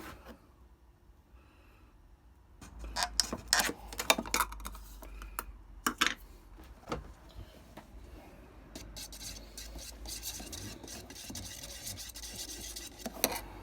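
Paint being rubbed and scraped off the metal ring of a vintage grocer's weight by hand, taking it back to bare metal: a few seconds of sharp clicks and knocks, then a steady rubbing from about nine seconds in.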